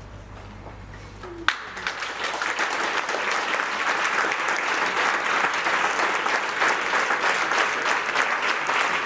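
A low held note from the tango recording dies away, then after a sharp click about a second and a half in, the audience breaks into applause that builds over the next second and then holds steady.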